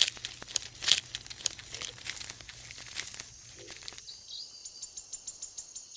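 Faint crackling and rustling with many scattered sharp clicks, the sound of dry vegetation being disturbed. A low hum drops out about four seconds in, leaving only faint high ticks and a few thin high tones.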